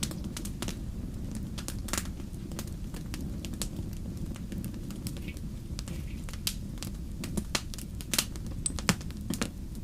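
Wood fire crackling: irregular sharp pops and snaps, several a second, some louder than others, over a steady low rumble.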